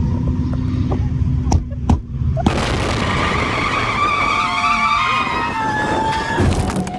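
Drift car engines running hard with tyres squealing in slides, in several abruptly joined clips.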